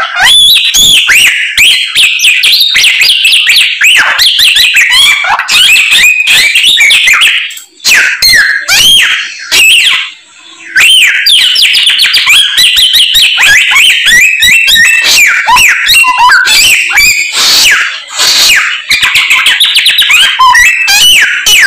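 Samyong songbird singing a loud, fast, varied song of chirps, trills and whistled glides packed with mimicked calls of other birds ('full isian'), with a short pause about ten seconds in.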